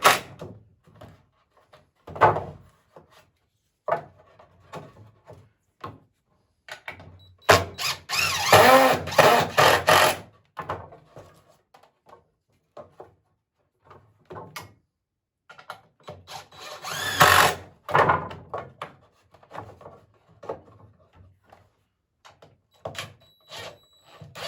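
Cordless drill driving screws into poplar swing slats in two runs of a couple of seconds each, about seven and about sixteen seconds in. Scattered wooden knocks and taps fall between them as the slats are handled.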